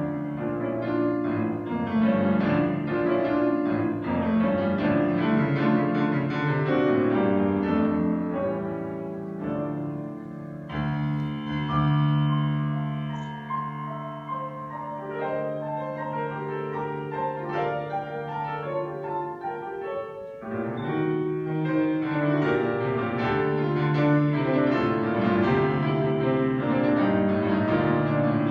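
Solo piano playing classical music: quick runs of notes, then a stretch of long, held chords in the middle before the busy playing resumes.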